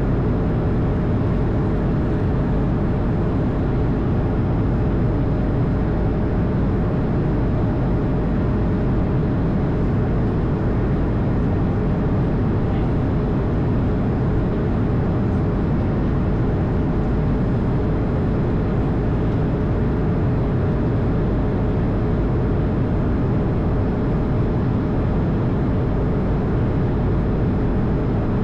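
Airbus A220 cockpit noise: a steady, even rumble of engines and airflow with a faint constant hum through it and no change in pitch or level.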